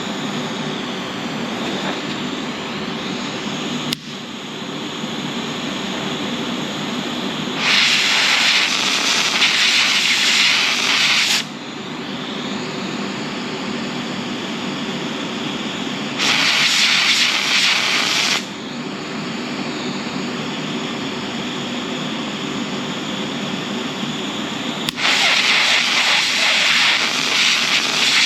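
Flux-cored arc welding from a Lincoln Weld-Pak 90i wire-feed welder: three runs of loud arc crackle and sizzle, about three, two and three seconds long, over a steady hum. The first run starts a little under eight seconds in.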